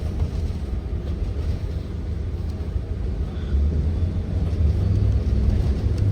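Low, steady rumble of a Blue Bird Vision school bus heard from inside, its Ford 7.3L V8 engine and road noise, growing louder about halfway through.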